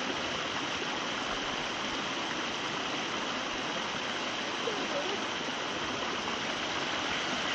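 Mountain stream rushing steadily over small cascades.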